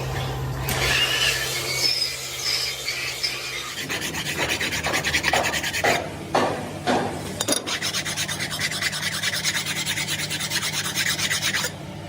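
Rasping, scraping strokes of hand work on a metal cylinder head. From about four seconds in they fall into a fast, even rhythm, then stop abruptly just before the end.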